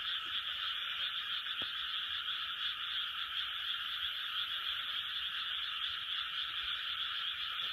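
Large chorus of frogs calling all at once, a dense, unbroken wall of calls at a steady level.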